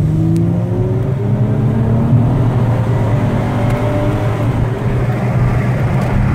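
Dodge Challenger's engine under hard acceleration, heard from inside the cabin, its note rising slowly and steadily.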